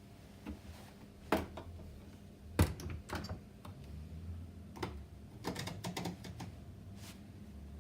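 Whirlpool washing machine early in a delicate cycle: irregular sharp clicks and knocks over a faint low motor hum.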